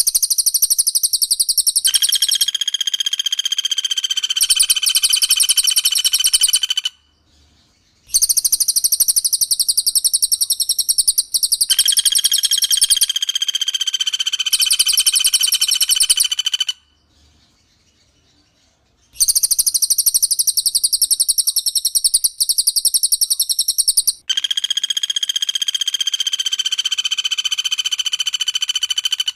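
Recorded songs of a cililin and a pelatuk bawang: a very fast, high-pitched rattling trill, joined partway through each phrase by a long, steady, clear whistle. The pattern comes three times, with short pauses between.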